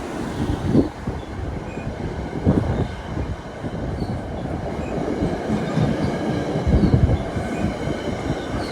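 Train rolling past close by: a steady rumble of wheels on rail, with irregular sharp knocks.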